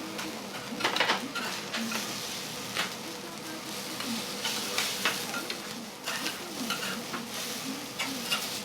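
Food sizzling on a hot iron teppan griddle, with metal spatulas scraping and clacking against the griddle every second or two.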